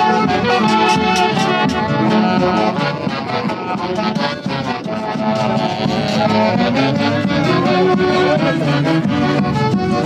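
Andean festival orchestra with saxophones playing a lively folk tune over a steady beat.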